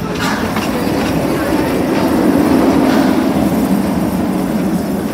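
Amusement park train rolling along the track, heard from the car right behind the locomotive's tender: a steady rumble of wheels on rail that swells a little midway.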